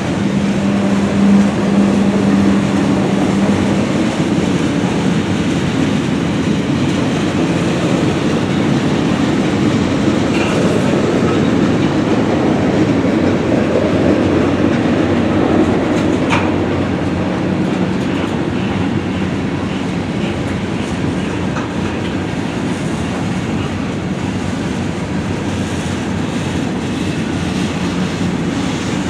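Train cars rolling steadily past, their wheels clacking over the rail joints, with a low hum through the first few seconds and a single sharp click about halfway through.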